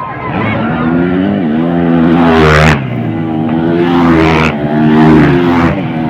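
Motocross bike engines revving hard on the track. The pitch climbs and then cuts off abruptly twice, with the throttle opening again after each cut.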